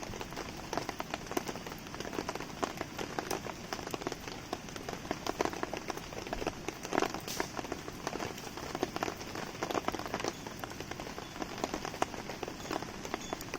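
Steady rain falling, a dense, irregular patter of drops, mixed with a wood campfire crackling.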